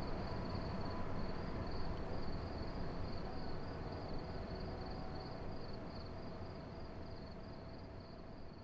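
Night-time outdoor ambience: crickets chirping in a steady, evenly pulsing trill over low background rumble. It all fades out gradually toward the end.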